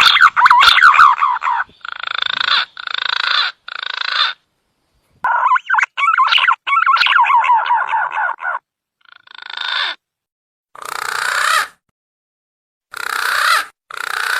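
Green pigeon (punai) lure call: rapid, wavering whistled warbles, broken by short hoarse notes that swell in loudness. The hoarse notes come in three near the start, then four more toward the end.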